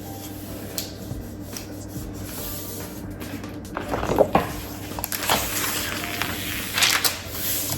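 Paper rustling and rubbing as a repositionable printed image is pressed and smoothed onto a cardstock box, with louder scuffs about four, five and seven seconds in.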